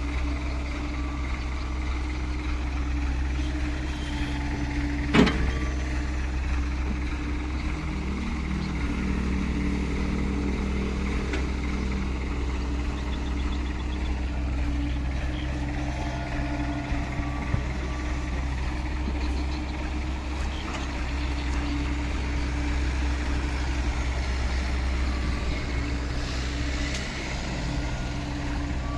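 Dump truck engine running steadily with a low rumble, the pitch shifting briefly a few seconds in. One sharp bang stands out about five seconds in.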